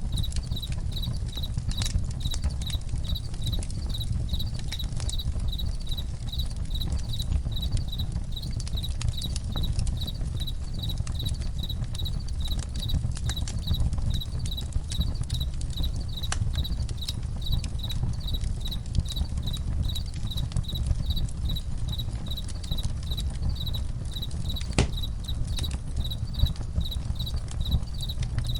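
Campfire crackling and popping over a low steady rumble, with crickets chirping in an even, continuous rhythm. One louder pop comes near the end.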